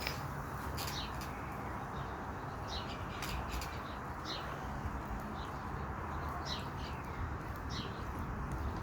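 Small birds chirping in short, repeated calls over a steady low rushing background, with a few faint clicks.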